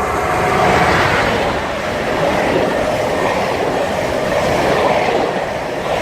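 Greater Anglia Class 90 electric locomotive and Mark 3 intercity set passing through the station at speed without stopping: a loud, steady rush of wheels on rail that peaks about a second in.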